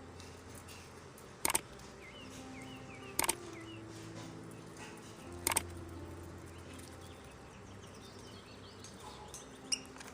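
Lovebirds chirping in short, high twittering runs. Loud sharp taps come at about one and a half, three and five and a half seconds in, each a quick double, and a single tap near the end.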